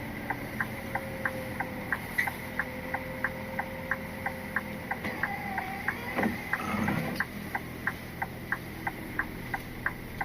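Rapid reversing warning beeps, about three short beeps a second, as an articulated lorry backs onto a loading bay, over the low hum of the diesel engine. A rougher, noisier sound joins in briefly about six seconds in.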